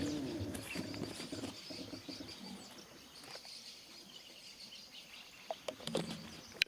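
Faint bird chirps, with a few sharp clicks late on.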